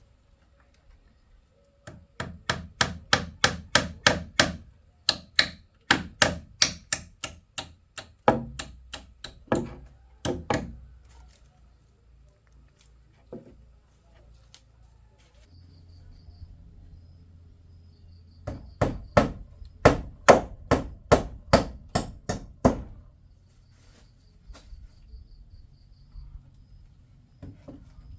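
Rapid runs of sharp strikes on wood, about three to four a second, in two bursts with a pause between.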